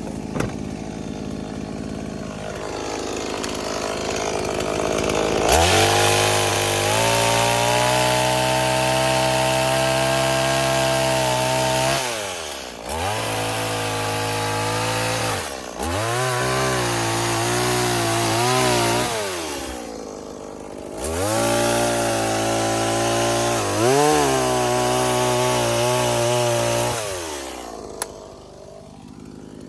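New Stihl chainsaw running. It is fainter at first, then revs up to full throttle about five seconds in. The revs dip and climb back several times, drop away briefly about two-thirds of the way through, return to full throttle, and fall back toward idle near the end.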